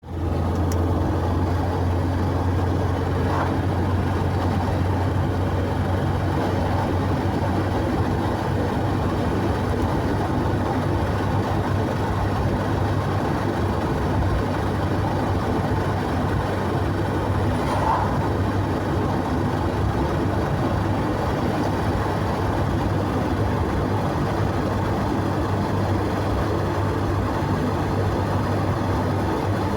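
A vehicle driving at a steady speed: constant low engine drone and road noise, with no changes in speed.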